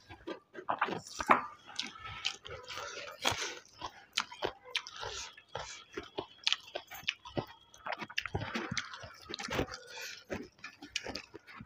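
Chewing and lip smacks of a person eating mutton curry and rice by hand, with fingers squishing and mixing rice into curry on a steel plate. Irregular sharp clicks and wet smacks throughout.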